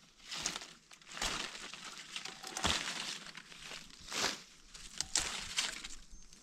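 Irregular rustling and crinkling, a run of noisy swishes about a second apart with a few sharp clicks among them.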